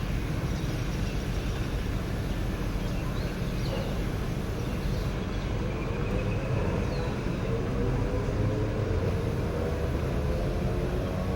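Huebsch washing machine running with a steady rumble; from about six seconds in, a motor whine rises slowly in pitch as the machine speeds up.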